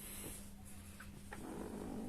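Electric massager running with a steady motor hum while its massage rollers squeak, rubbing against the fabric of the massager's cover; a louder, wavering squeak starts about two-thirds of the way in. The squeak comes from friction of the rollers on the cover fabric.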